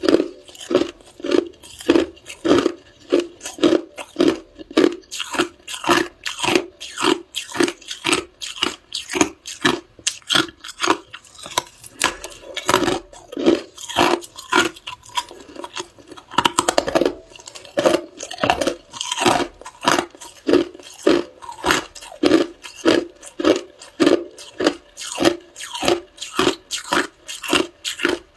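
A person chewing hard ice, crunching it steadily at about two chews a second, each bite a sharp crack and grind.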